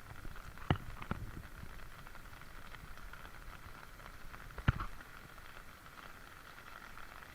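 A steady hiss with a few sharp knocks: two close together about a second in and a louder one a little past the middle.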